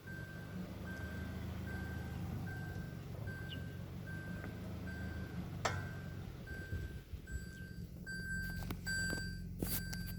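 Toyota Corolla Altis reverse-gear warning beeping a little more than once a second, a short steady tone over the car's low running hum. Higher beep tones join in, along with a few sharp clicks, in the last couple of seconds.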